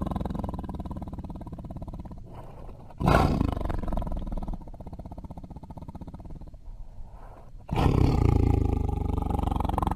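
Tiger roaring: a roar dies away, then two loud roars start suddenly, about three seconds in and again near the end, with a quieter rumble between them.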